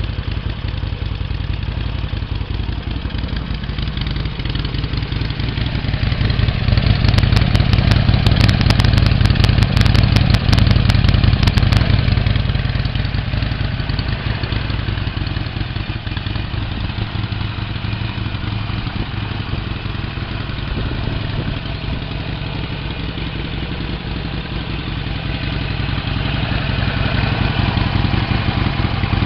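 Harley-Davidson Sportster 1200 Custom's air-cooled V-twin idling through its stock exhaust. The engine gets louder for several seconds from about six seconds in, then settles back to idle, and rises a little again near the end.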